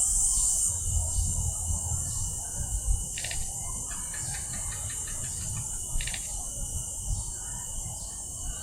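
Mangrove ambience: insects buzzing with a thin steady high whine, and a short high chirping call that comes three times, about three seconds apart.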